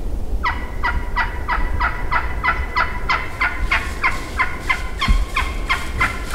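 A bird calling a long series of evenly spaced, pitched notes, about three a second, starting about half a second in and growing louder partway through. Low wind rumble on the microphone underneath.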